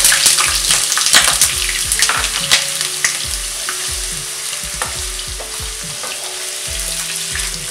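Potato wedges sizzling and crackling in hot mustard oil in a kadhai, loudest at first and easing off. A wooden spatula stirs and turns them.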